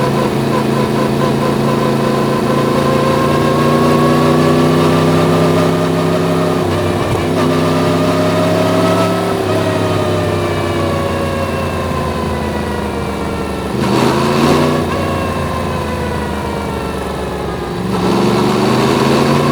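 Yamaha MT-10's crossplane inline-four engine running under way. The note climbs, drops twice in quick steps, then falls off as the bike slows. It gives a brief sharp rev about two-thirds through and picks up again near the end.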